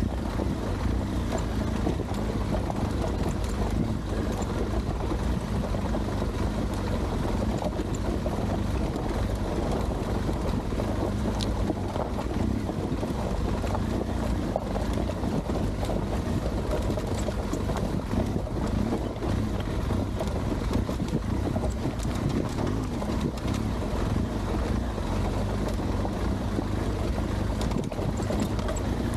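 Adventure motorcycle riding over loose gravel and rock: the engine runs steadily under wind noise on the microphone, with a few sharp clicks.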